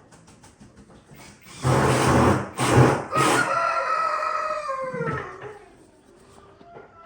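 A rooster crowing once, starting about a second and a half in and lasting about four seconds, its pitch dropping away at the end. Faint small ticks come before it.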